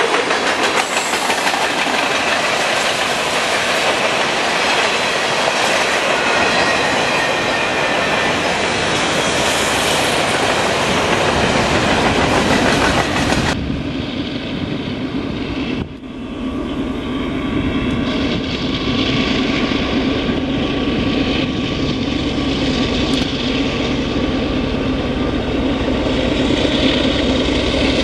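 Freight train of covered grain hoppers rolling by, a dense steady rumble of wheels on rail with thin wheel squeal. About 13 seconds in it cuts to a diesel locomotive hauling an intermodal train, its engine giving a steady low drone over the rolling noise.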